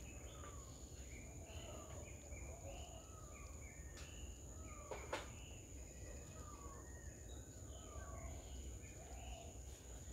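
Birds calling with many short, repeated chirps and whistles over a steady high insect drone, with one sharp click about five seconds in.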